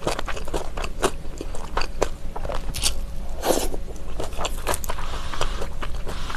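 Close-miked eating of kimchi jjigae: wet chewing of a mouthful of stewed kimchi, with many short, sharp mouth clicks and a louder bite about three and a half seconds in as a fresh mouthful goes in.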